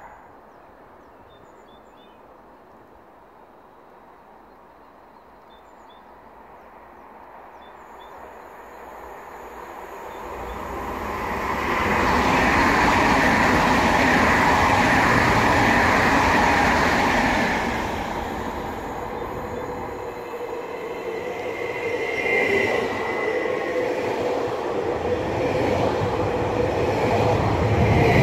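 A VR Sm3 Pendolino electric tilting train passes at speed on the far track: its rushing rail noise swells to a loud peak about halfway through, then falls away. A Stadler FLIRT (Sm5) commuter electric train then runs in close along the near track and grows louder toward the end, with a brief steady high tone about two-thirds of the way in.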